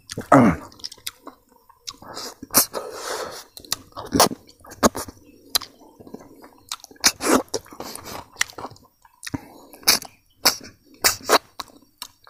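A person eating close to the microphone: wet chewing and smacking with many sharp crunches from crispy fried grasshoppers eaten with rice.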